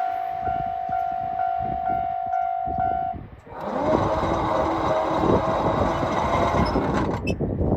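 789 series electric express train passing on the rails: rhythmic wheel clatter under a steady high tone that stops about three seconds in, then a louder, denser rush of the train going by.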